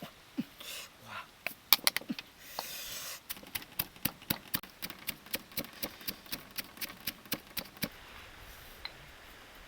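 A few loud, sharp knocks and a brief rustling burst, then a steady run of sharp taps at about four a second that stops a couple of seconds before the end.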